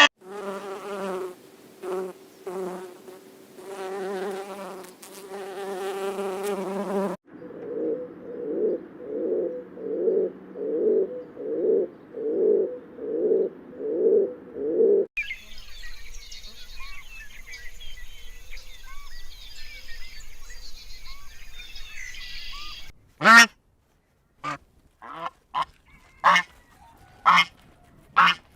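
A run of separate bird-call recordings, each cut in abruptly. First come waterfowl honking calls, then calls repeated about one and a half times a second. Next is a stretch of busy, high-pitched chirping, and last a few loud, sharp calls with pauses between them.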